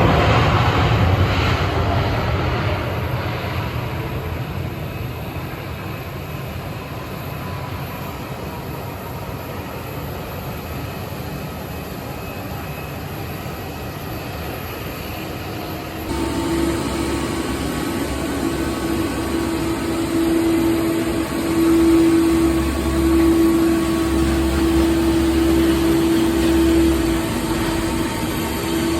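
A Boeing 777-200ER airliner's jet engines, loud at first and then fading away as the aircraft passes. About halfway through, the sound changes abruptly to a steady engine hum over a low rumble, which grows louder again near the end.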